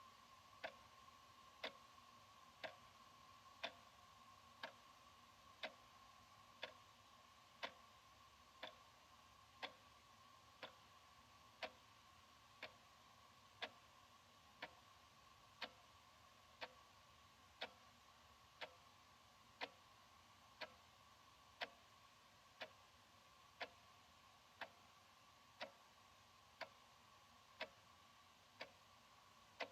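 Analog wall clock ticking steadily, one tick a second.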